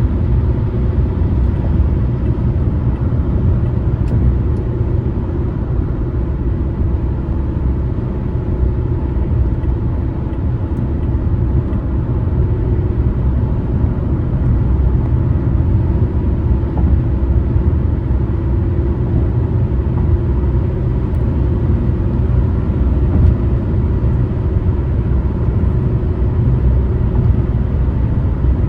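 Car driving at a steady speed, with a continuous low rumble of engine and tyre road noise.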